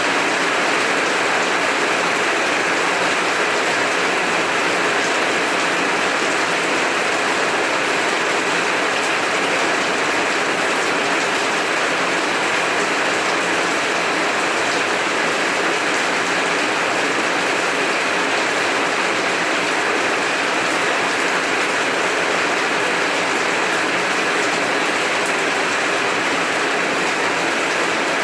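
Heavy rain falling steadily, an even wash of noise with no pauses or thunder claps.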